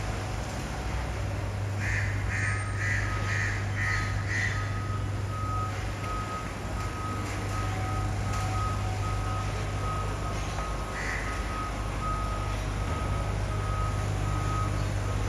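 Reversing alarm on a Mercedes-Benz Arocs garbage truck: a steady repeating single-pitch beep that starts a couple of seconds in, over the low, steady hum of the truck's diesel engine running. A short run of quicker, higher-pitched chirps sounds briefly a couple of seconds in.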